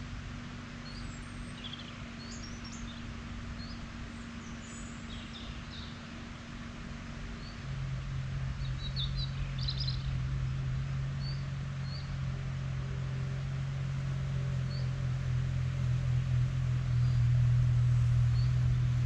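Small birds chirping in short, scattered calls over a faint low hum. About eight seconds in, a louder, steady low engine hum starts and grows gradually louder, like a motor vehicle running or drawing closer.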